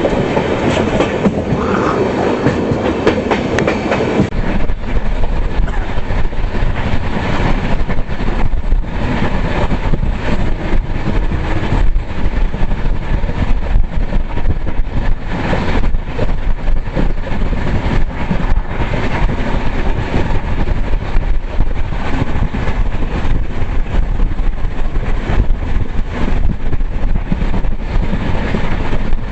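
Moving passenger train rumbling along the track, its wheels clicking and knocking over the rail joints. About four seconds in, the sound turns duller, with less hiss.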